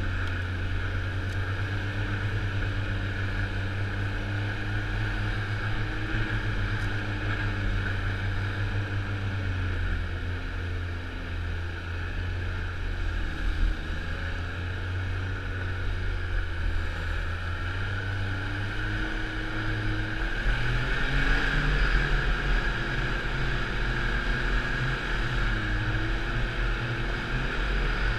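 Snowmobile engine running under way, its pitch rising and falling with the throttle. It gets louder about two-thirds of the way through.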